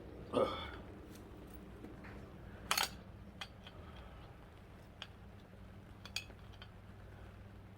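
Metal tools and engine parts clinking and tapping during forklift engine reassembly: one sharp clink a little under 3 seconds in, then a few lighter ticks. A short vocal sound comes about half a second in, over a steady low hum.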